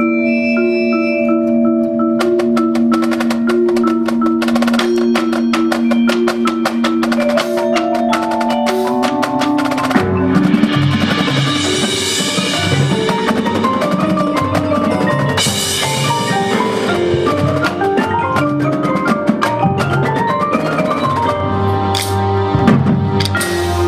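Marching band music. Mallet percussion (marimba and glockenspiel) plays a melody of clear struck notes, and the sound turns much fuller and denser about ten seconds in as more of the ensemble joins.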